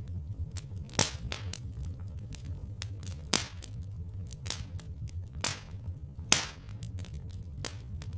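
Wood fire crackling, with irregular snaps and a few louder pops about a second in, near three and a half seconds, and twice more in the second half, over a low steady rumble.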